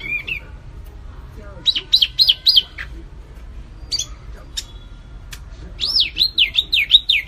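Recorded songbird song, used as a bird-tutoring track: quick, high, clear whistled notes that sweep up and down, a burst of four about two seconds in and a longer run of about six near the end, with a few single chirps between.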